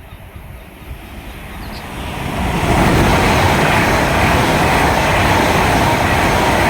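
Avanti West Coast Class 390 Pendolino electric train passing through at speed. The rush of noise builds over the first two seconds or so, then holds loud and steady.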